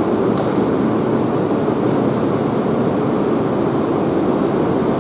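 Steady even running noise from a JR Kyushu 885 series electric limited express standing at a station platform, its onboard equipment running while stopped. A brief faint high falling chirp comes about half a second in.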